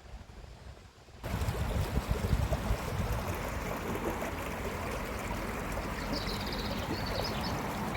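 Steady rushing of running water that starts abruptly about a second in, with a few high bird chirps near the end.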